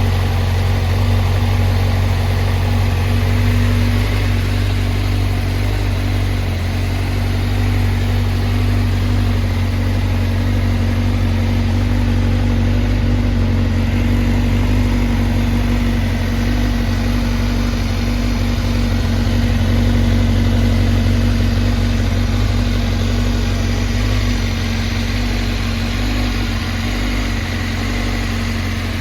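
Honda CBR1000RR-R's inline-four engine idling steadily.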